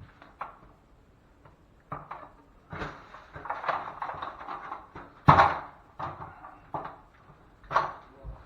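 Tools and equipment being handled: a run of irregular knocks and clatters, the loudest a sharp knock about five seconds in.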